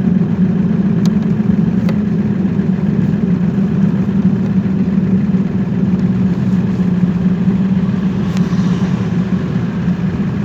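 A vehicle's engine running steadily with a constant low drone, under a few faint light clicks.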